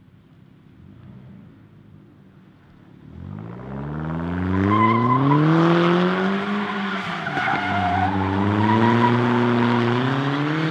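Hyundai Genesis Coupe doing donuts: its engine revs up hard about three seconds in and is held high, dipping briefly partway through before climbing again, while its rear tyres squeal as they spin.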